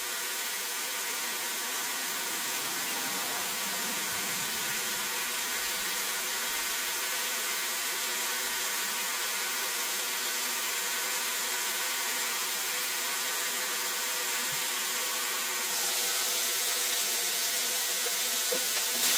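Chicken strips frying on an electric grill: a steady sizzling hiss over a buzzing hum, growing brighter and a little louder in the last few seconds.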